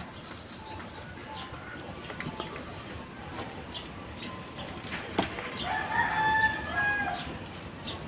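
Birds chirping in the background, short rising chirps every second or two, with a longer, louder call lasting about a second and a half about six seconds in.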